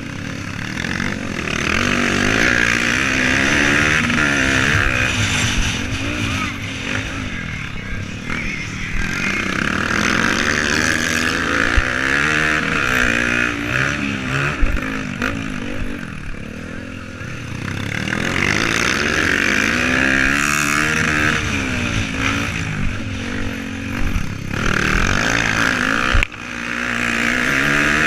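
Motocross bike engines revving hard, their pitch rising and falling over and over as the bikes accelerate, shift and back off through the course.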